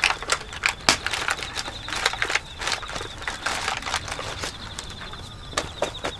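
Wood fire crackling, with sharp snaps and pops coming at irregular intervals. A steady, high, pulsing trill runs behind them throughout.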